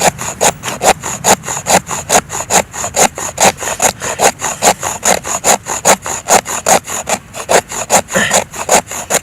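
Wood being worked with rapid, even back-and-forth strokes, about four to five a second, with a rasping scrape on each stroke.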